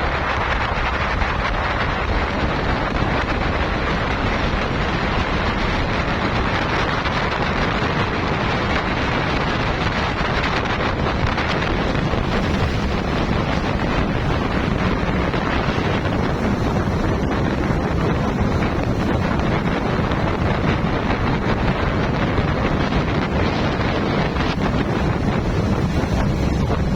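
Steady wind buffeting the microphone on a boat under way, over the even rush of water and the boat's running motor.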